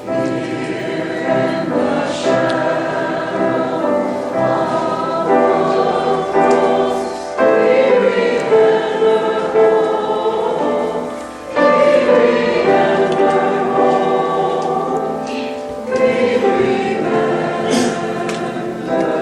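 Choir singing a sacred cantata in long phrases with short breaks between them.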